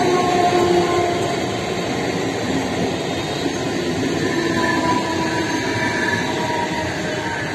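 Mumbai suburban electric multiple-unit local train rolling past on its rails, a steady running noise of wheels and carriages with faint whining tones that slowly drift in pitch.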